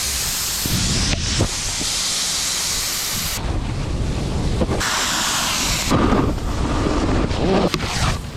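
Steady rushing hiss of riding down a snow slope, with wind on the camera microphone; the hiss drops and comes back abruptly a few times.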